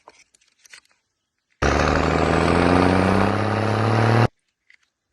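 A motor vehicle's engine revving, laid in as a sound effect. It starts abruptly about one and a half seconds in, climbs slowly in pitch, and cuts off suddenly under three seconds later.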